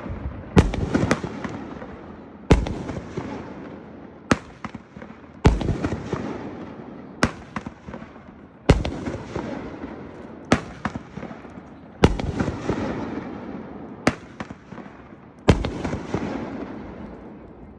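A 200-gram consumer firework cake firing shot after shot, about ten sharp bangs spaced roughly one and a half to two seconds apart, each fading away before the next.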